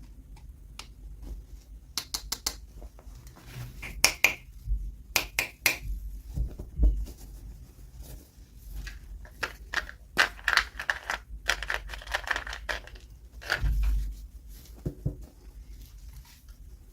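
Toy packaging being handled and opened by hand: clusters of sharp plastic clicks and taps, then a few seconds of crinkling and tearing about two-thirds of the way through.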